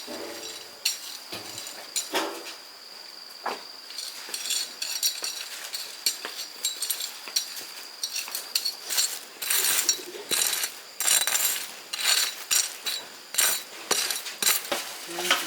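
Quick, irregular clinks and knocks of utensils against dishes or pots, busier from about four seconds in, over a faint steady high-pitched tone.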